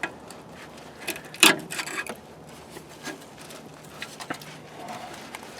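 Scattered light clicks and rubbing of hand tools and a hose clamp being handled on the power steering cooler line, with one louder knock about a second and a half in.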